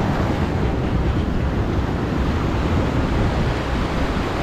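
Ocean surf and wind rushing steadily over the microphone, a loud, even roar with no tune or voice in it.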